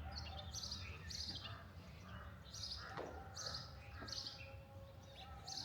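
Small birds chirping, short high chirps repeating every half second to a second, over a low steady rumble. There are a couple of soft knocks about three and four seconds in.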